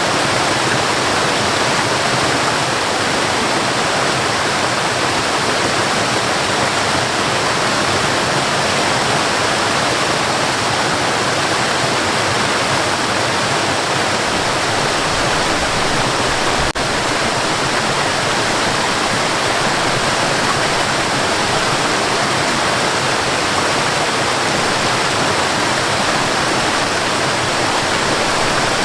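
Waterfall: water falling and rushing in a steady, loud roar of white noise, with a momentary dropout about two-thirds of the way through.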